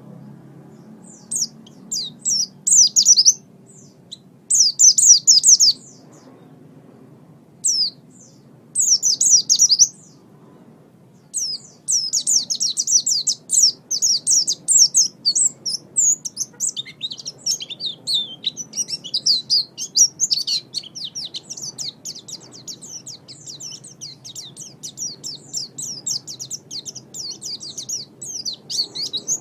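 White-eye (pleci) singing: a rapid, high twittering of quick notes, in short phrases with gaps at first, then running on almost without a break for the rest of the time.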